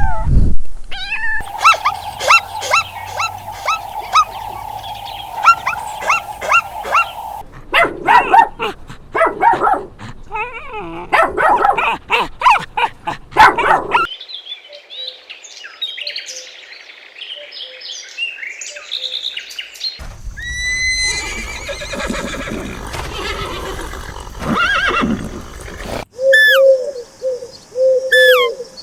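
A run of different animal calls, one clip after another. The sound changes abruptly about every six seconds, each segment holding repeated pitched calls from a different animal.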